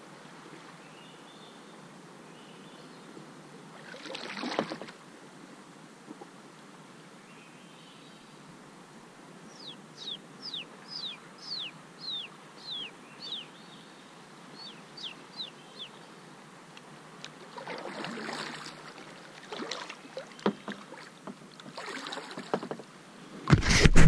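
A bird sings a run of about a dozen clear whistles, each sliding down in pitch, about two a second for several seconds in the middle. A few soft splashes from the kayak paddle on calm water come around it, and near the end a finger rubbing on the camera makes a loud knock.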